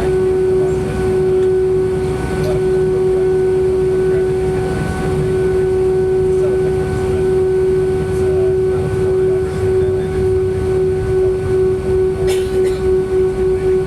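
Airbus A319 cabin noise: a steady engine drone with a strong, steady whining tone over a low rumble. Near the end the level starts pulsing in a quick, quickening beat.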